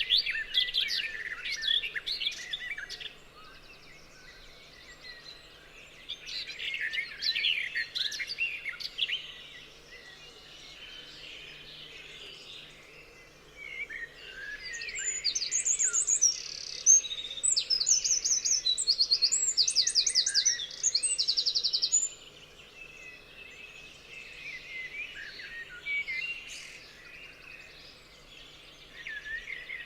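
Several forest songbirds singing and chirping in bouts. Roughly halfway through comes a loud run of quick, high, repeated notes that lasts several seconds.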